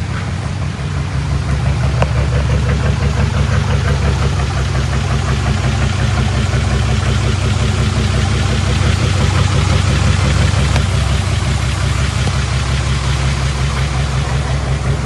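Diesel engine of heavy earthmoving machinery running steadily, a deep, even drone that grows slightly louder over the first couple of seconds.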